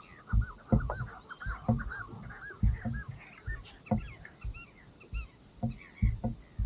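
A flock of seabirds calling: many short, arched squawks in quick succession, thick for the first three seconds, then thinning out. Irregular dull low thumps run underneath.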